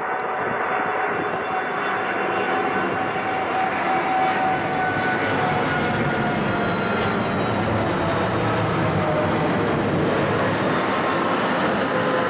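Boeing 777's twin jet engines on landing approach, a loud steady roar with whining tones that fall slowly in pitch as it goes by.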